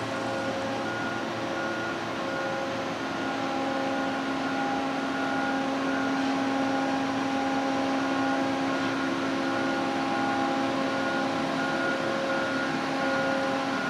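A steady machine hum: a constant drone with a few steady tones over a noisy hiss, holding even throughout.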